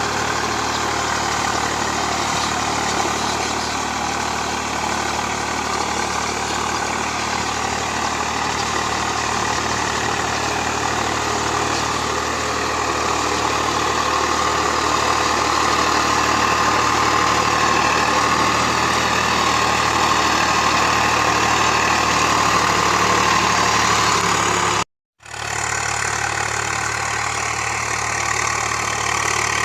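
Swaraj 744 FE tractor's three-cylinder diesel engine running steadily. The sound cuts out completely for a moment about 25 seconds in, then returns unchanged.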